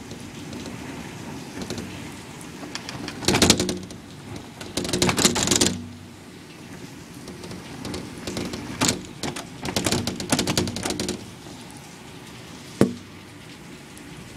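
Steady heavy rain in a severe thunderstorm, with several loud, noisy surges in the first half and again in the second, and one sharp knock near the end.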